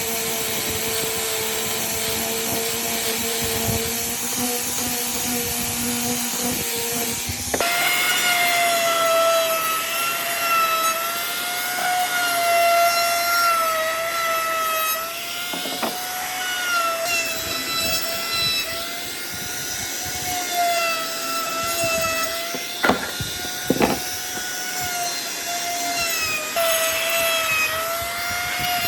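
Electric power tool's motor whining as it works wood, its pitch dipping and recovering as the load changes. About seven seconds in the whine shifts abruptly to a higher pitch, and a couple of sharp clicks come about two-thirds of the way through.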